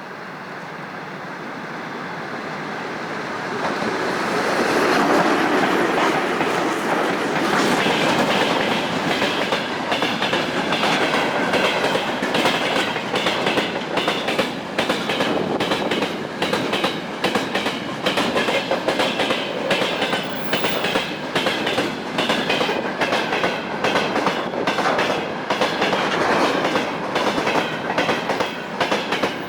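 A VL11.8 electric locomotive hauling a freight train approaches and passes, getting louder over the first few seconds. Freight wagons then roll by with a steady, rhythmic clickety-clack of wheels over rail joints.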